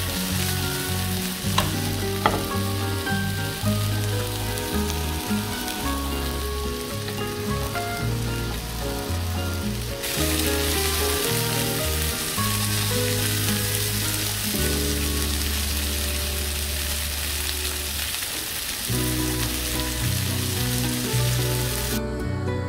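Chicken seekh kebabs sizzling as they shallow-fry in oil in a nonstick pan, with two sharp clicks about two seconds in. The sizzle cuts off suddenly near the end.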